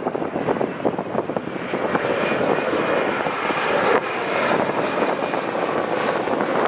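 An airliner's engines pass close by, a rushing noise with a faint steady whine that swells about a second and a half in and holds before easing near the end. Wind gusts buffet the microphone throughout.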